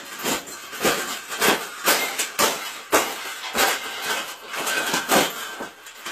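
Bird cage being bent and folded by hand: a run of irregular sharp knocks and rattles, roughly one or two a second.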